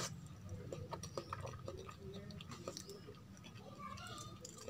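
A person chewing a mouthful of rice with kadhi and pakoras close to the microphone, with small wet mouth clicks and smacks. Fingers mix rice and kadhi in a steel plate.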